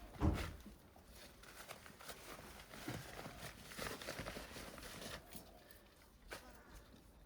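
A thump, then a few seconds of irregular rustling and scraping as a grow bag and its soil are handled, with a sharp click about six seconds in.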